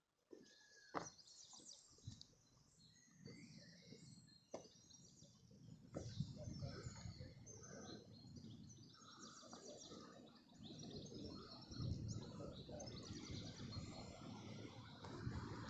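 Faint songbirds chirping and singing, with a few sharp clicks in the first six seconds and a low rumbling noise that grows from about six seconds in.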